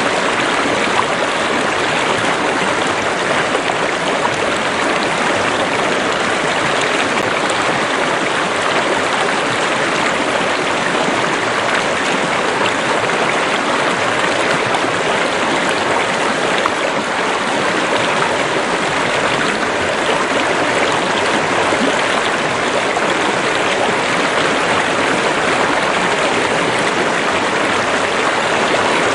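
Running water of a stream or river flowing steadily, as an even, unbroken rushing.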